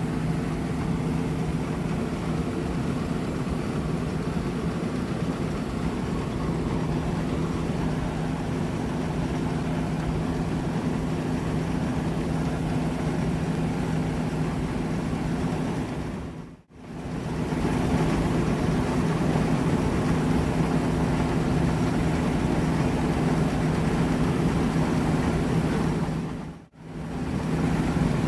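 John Deere S780 combine running steadily while harvesting wheat: a continuous machinery drone with a steady low hum. The sound fades out and back in briefly twice, about two-thirds through and near the end.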